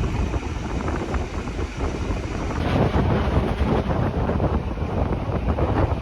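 Rhaetian Railway regional train running along the track: a steady rumble from the wheels and carriage, with wind buffeting the microphone. It gets slightly louder about halfway through.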